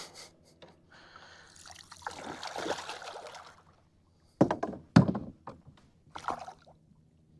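Water splashing and sloshing beside a kayak as a hooked redfish is fought close in, followed by two sharp knocks on the kayak about a second and a half apart, with a smaller one after.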